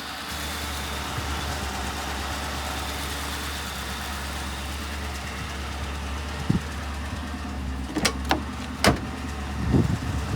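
Ford Crown Victoria Police Interceptor's 4.6-litre V8 idling steadily, running on a little fuel poured straight into the intake because the fuel pump is bad. A few sharp clicks come near the end.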